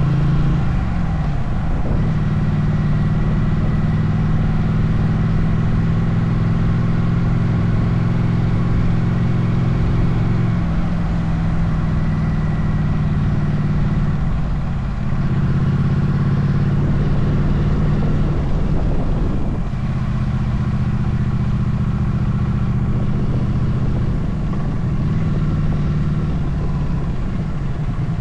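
Motorcycle engine running under way, its note dropping and picking up again several times as the rider eases off and gets back on the throttle, over steady road and wind noise.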